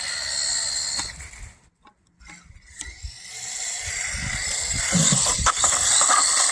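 1/18-scale electric RC truck's motor and gear drivetrain whining under throttle, with a gear rattle; it cuts out about a second and a half in, then winds back up and runs again.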